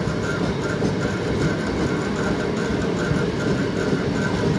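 Electric multiple-unit local train rolling past a station platform: a steady rumble of steel wheels on rails and running gear, with a faint high tone that breaks up in a regular pulse.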